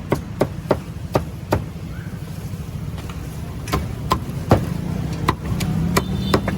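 Sharp knocks at an uneven pace, a few each second in two runs with a pause between, over a steady low rumble.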